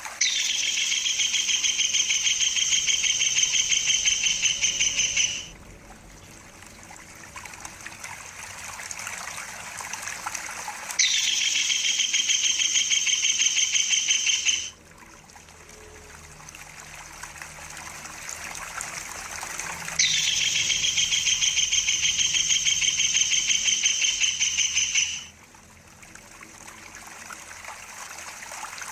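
Kingfisher (tengkek udang) giving a rapid, high-pitched rolling trill in three bouts of about four to five seconds each, over the steady trickle of running water.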